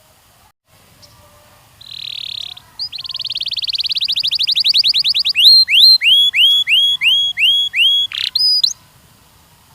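Canary singing: a short buzzy note, then a fast trill that grows louder, then about seven slower, louder sweeping notes, roughly two a second, before the song stops near the end.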